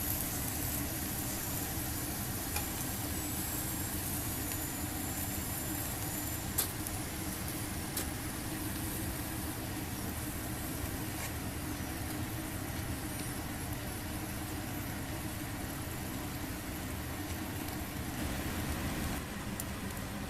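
Yakitori grilling over a BE-PAL mini fire pit: a steady sizzling hiss with a few sharp pops, the loudest about six and a half seconds in.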